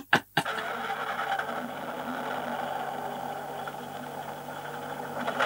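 Car engine running steadily, the sound of the car being driven along.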